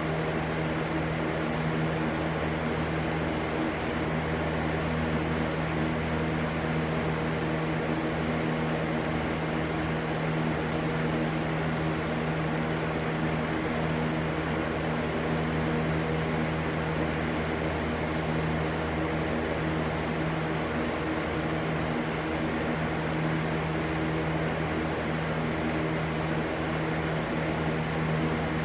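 Steady white-noise ambience: an even rushing noise over a constant low hum, unchanging throughout.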